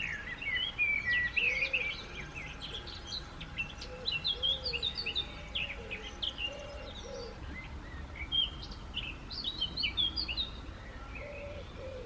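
Songbirds singing and chirping, many short quick notes overlapping, with a lull a little past the middle before they pick up again.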